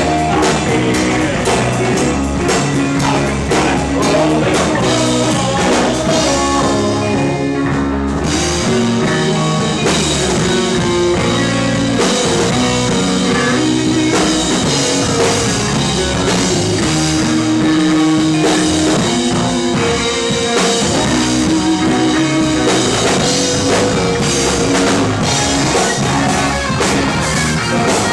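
A rock band playing live: electric guitars, bass and drum kit.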